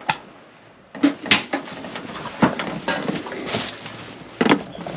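Tools and tool cases being handled and pulled from a shelf: a series of knocks and clatters, several sharp ones about a second apart after a quiet first second.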